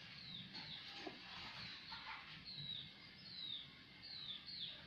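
A bird chirping repeatedly and faintly, each chirp a short falling note, about two a second.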